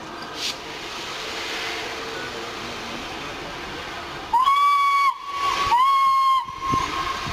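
Steam locomotive whistle sounding two short blasts about half a second apart, after a steady hiss of steam and a running train.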